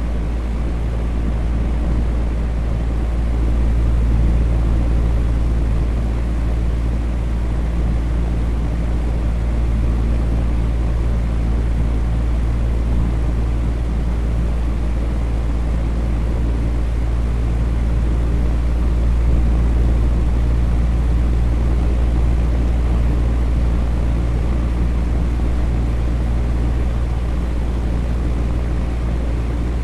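Electric fan running steadily: a constant whooshing drone with a deep low rumble and a faint hum.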